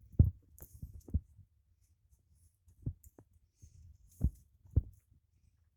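About five dull, low thumps, irregularly spaced, with faint scratching between them, from the wooden hive box and brush being handled while glue is worked into the box's edge.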